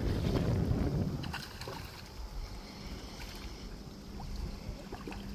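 Wind rumbling on the microphone, loudest in the first second, then easing, with a few faint clicks and a low steady hum that starts about two and a half seconds in.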